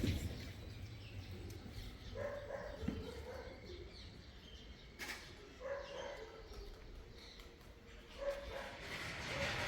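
A few short animal calls at intervals, over a steady low rumble.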